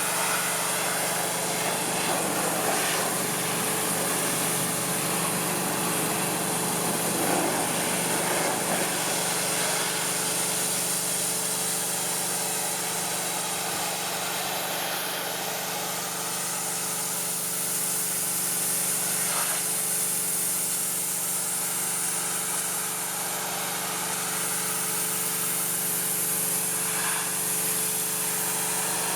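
Pressure washer running steadily, its motor humming under the hiss of the water jet spraying.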